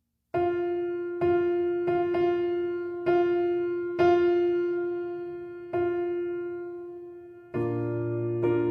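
Background solo piano music: a slow line of single notes, mostly the same pitch repeated, each struck and left to ring and fade. It begins after a brief pause, and fuller chords with lower notes come in near the end.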